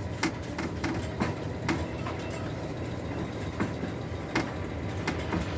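Scattered light knocks and clicks of birdcage parts being handled and wiped down, over a low steady rumble.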